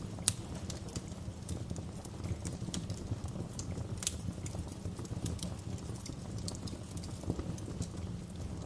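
Wood fire burning in a fireplace: a steady low rumble of the flames with irregular sharp crackles and pops, one louder pop about a quarter second in.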